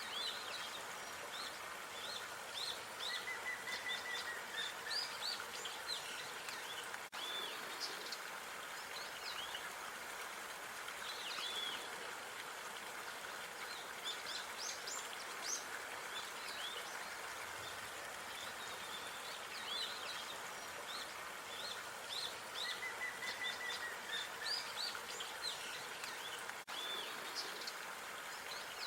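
Small songbirds chirping and trilling in quick short calls over a steady hiss of outdoor background noise. The same stretch of birdsong repeats, with a brief dropout at each loop point.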